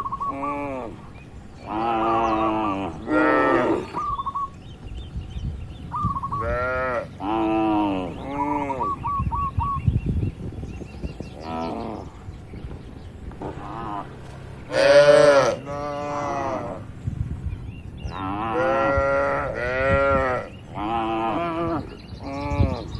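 Cattle mooing again and again, a string of short calls of differing pitch, one louder and higher call about fifteen seconds in.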